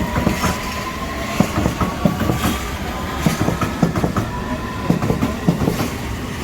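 Train wheels rolling over the rails with an irregular clatter of knocks and a steady rumble, and a thin wheel squeal that rises slowly over the first few seconds.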